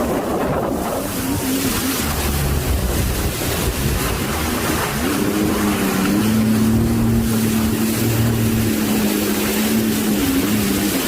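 Storm wind buffeting the microphone over rough, churning water, with a steady droning tone for about five seconds in the middle.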